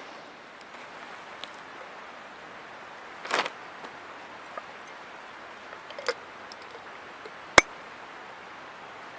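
River water flowing steadily, with a few short knocks and clicks over it. The loudest is one sharp crack about three-quarters of the way in.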